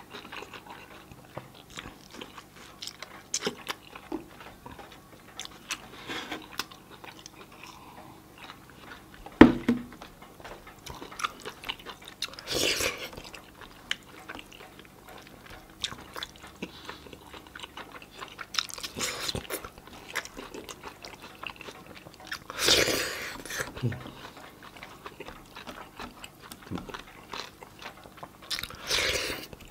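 Close-up eating sounds of a person chewing rice and chicken curry eaten by hand, with small wet smacks and clicks. Four louder mouth noises of about a second each are spread through, and a single sharp knock about nine and a half seconds in is the loudest sound.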